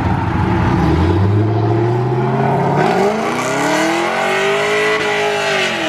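A car's engine revving hard as it pulls away. Its pitch climbs slowly at first, rises steeply about three seconds in, peaks about five seconds in and falls back near the end.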